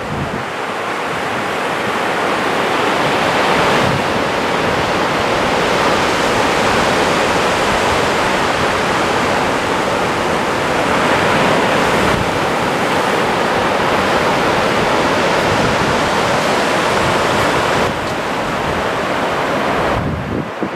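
Small surf breaking and washing up a wide sandy beach, a steady rush of noise that swells and eases, with wind buffeting the microphone.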